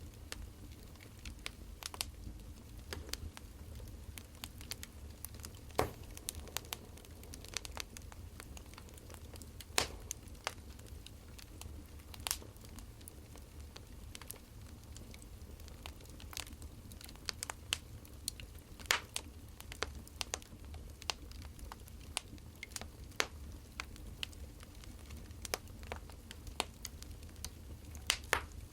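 Wood fire crackling: burning firewood gives irregular sharp pops and snaps, a few louder than the rest, over a low steady rumble.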